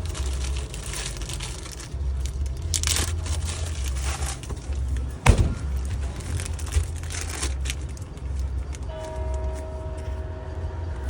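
Food truck kitchen working noise: a steady low hum that pulses, with crackling and rustling over it. A sharp clack about five seconds in, and a steady tone sets in near the end.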